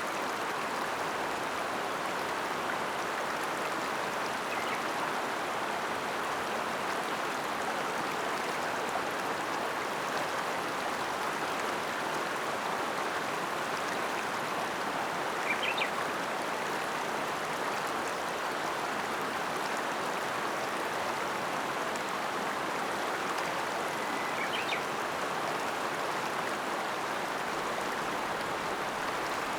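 Ōta River flowing: a steady, even rush of water. Two brief faint high chirps come through, about halfway and again later.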